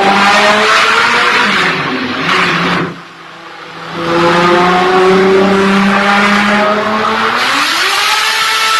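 Ford Escort Mk2 hillclimb car's race engine running hard on a dyno, held at a steady high pitch. It cuts back briefly about three seconds in, holds steady again, then revs higher near the end.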